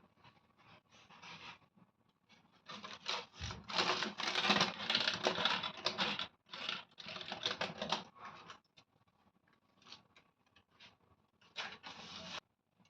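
Irregular scratching, scraping and tapping of hands-on kitchen work, densest and loudest a few seconds in, then sparse taps and a short burst near the end that cuts off abruptly.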